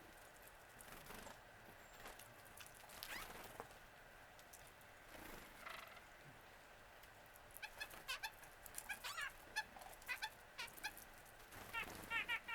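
Wild birds calling: a few slurred calls in the first half, then a run of quick, short, high chirps from a little past halfway, loudest near the end.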